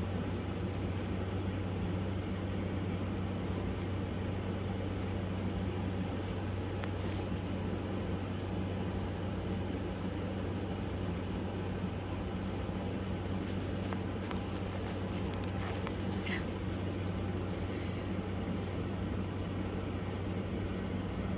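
A steady low electrical hum under a continuous high, fast-pulsing trill of chirping crickets, which fades out near the end, with a few faint clicks in between.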